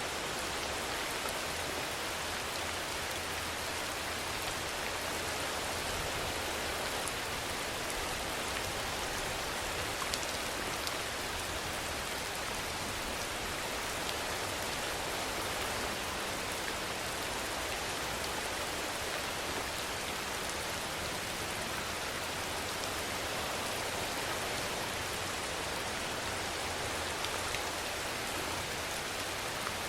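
Steady rainfall: an even, unbroken hiss of rain with a few sharper drop ticks.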